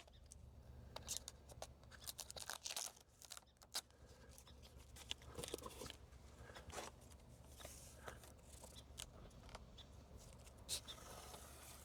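Faint scattered rustles and small ticks of the red backing liner being peeled off a rain guard's double-sided tape.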